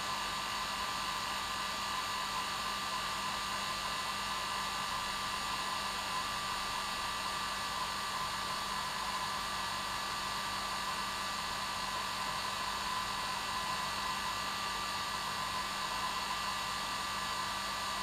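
Hair dryer running steadily on its normal setting: an even rush of air with a steady whine from the motor, unchanging throughout.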